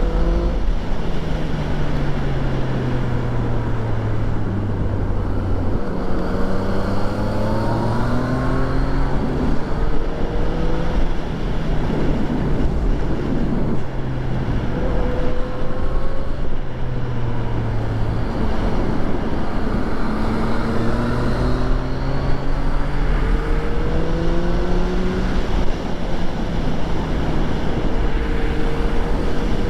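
Yamaha FZ-09's 847 cc inline-three engine under way: the engine note falls as the bike slows, then climbs in steps as it accelerates through the gears, runs steady for a while, and climbs through the gears again. A steady rush of wind and road noise runs underneath.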